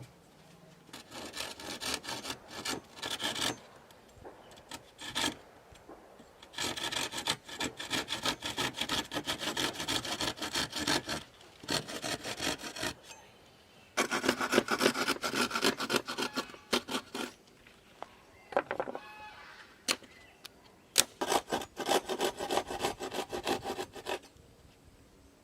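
Hand saw cutting through wood in four bouts of quick back-and-forth strokes, with short pauses between them.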